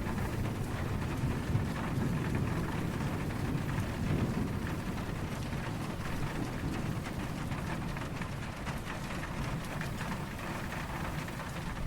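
Steady rain falling, with a low rumble of distant thunder running beneath it.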